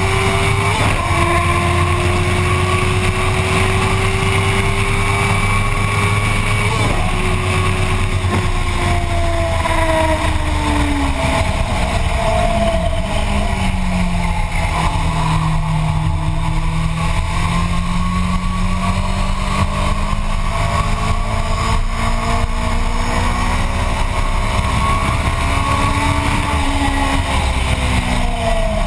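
Motorcycle engine heard onboard at track speed over heavy wind buffeting on the microphone. The engine holds a high note with two quick breaks in the first seven seconds, falls steadily as the bike slows into a corner, stays low for a few seconds, then rises again under acceleration before dropping near the end.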